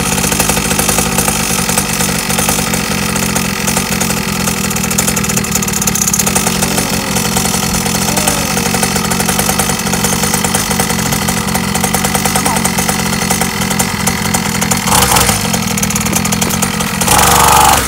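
Small two-stroke engine of a Syxmoto Holeshot 50cc kids' dirt bike running at a steady idle just after being started. It briefly gets louder near the end.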